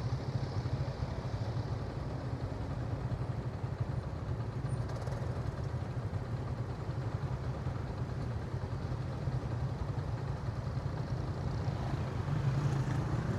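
Motorcycle engine running at a steady pace, its note holding even with no revving.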